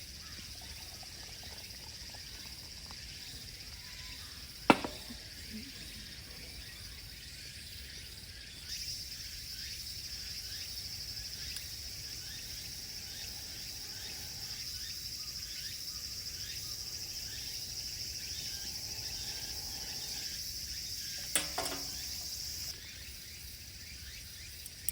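Crickets chirring steadily in a high, even drone, louder through the middle stretch. Two sharp clicks cut through it, about five seconds in and again near the end.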